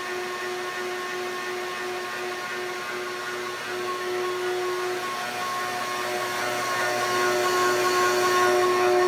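Vacuum motor running steadily, a hiss of rushing air under a high, even whine, growing louder over the second half.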